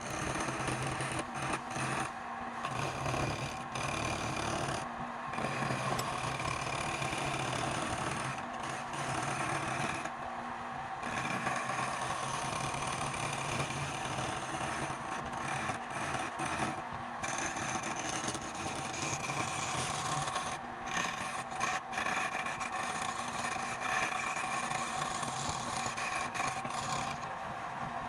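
Wood lathe running while a hand-held turning tool cuts and scrapes the spinning wood, with brief breaks several times as the tool comes off the work.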